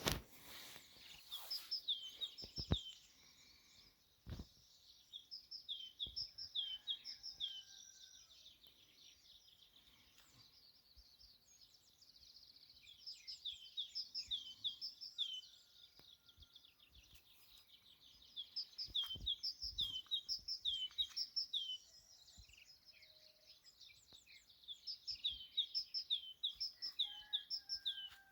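Small songbirds singing in spring countryside, one bird repeating a rapid run of high, falling chirps in bursts every few seconds, with fainter calls from other birds between the bursts. A few low thumps are also heard, mostly near the start.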